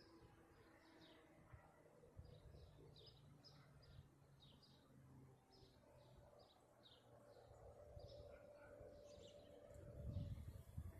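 Quiet outdoor ambience: a small bird chirping repeatedly, short high chirps about twice a second, with a faint low hum under it and low rumbles near the end.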